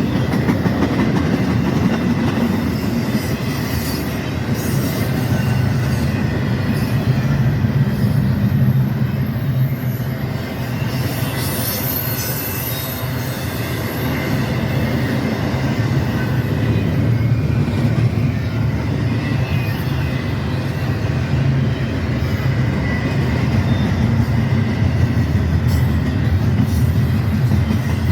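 A train rolling past close by: a steady heavy rumble of wheels on rail, with faint wheel squeal about midway.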